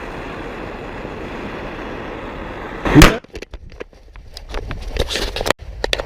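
A steady rushing noise of a flame heating a bullet cartridge. About three seconds in the cartridge goes off with one loud, sharp bang, followed by scattered clicks and rattles.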